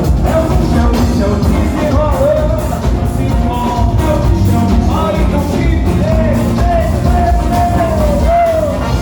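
Loud carnival band music, with dense drumming under a gliding sung or played melody.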